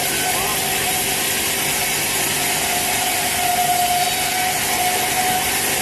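Sawmill saw running steadily as it cuts through a teak log, with a faint whine that comes and goes.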